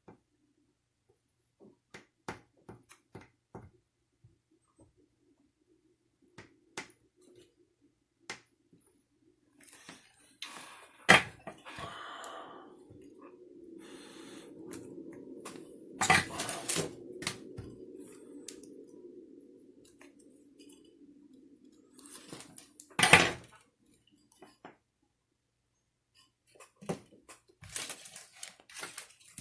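Small tools and plastic and metal parts clicking and clattering as they are handled. Several louder knocks come about eleven, sixteen and twenty-three seconds in. A steady low hum runs under them for about twelve seconds in the middle.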